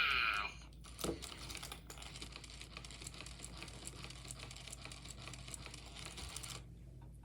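A Furby's motor and gearbox clicking rapidly as it moves, for about five and a half seconds, just after the tail of a high Furby voice.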